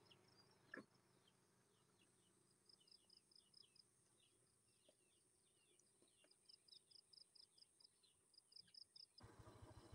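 Near silence with faint, high bird chirps, some in quick runs of short repeated notes and some single falling notes. A low rumbling noise sets in abruptly near the end.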